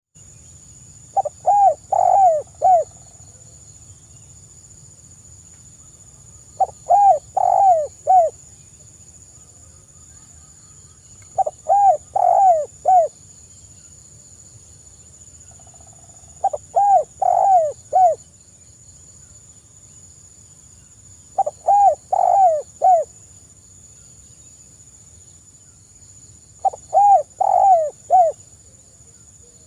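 Spotted dove (tekukur) cooing: six repeated phrases, about five seconds apart, each a run of four or five rising-and-falling coos.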